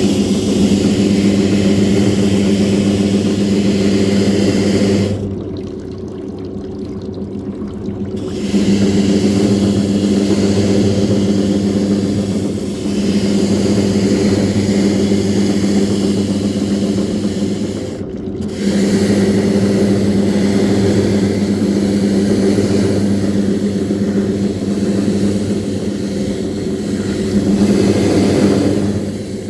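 Washing machine running with shoes inside: a steady motor hum under a wash of churning water. It drops away for a few seconds about five seconds in and briefly again around eighteen seconds.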